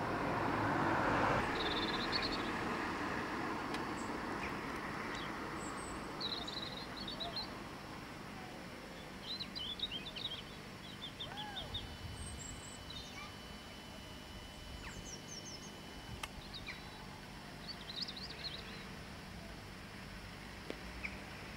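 Small birds chirping and twittering in short, scattered calls over a faint rushing background noise, which is loudest at the start and fades over the first few seconds.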